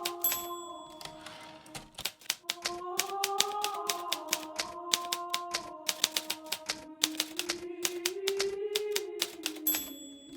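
Hermes Baby portable typewriter typing in quick, uneven runs of keystrokes. The margin bell rings just after the start and again near the end, each time followed by the carriage being returned before typing resumes. A slow, soft melody plays underneath.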